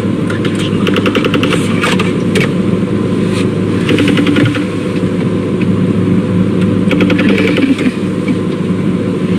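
Car engine idling, heard from inside the cabin as a steady low hum, with faint clicks and rustling over it.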